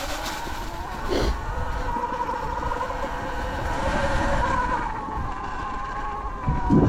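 Sur-Ron Light Bee X electric dirt bike's motor whining as it rides, the pitch rising and falling gently with speed, over rumbling trail and wind noise. A thump about a second in and a louder one near the end.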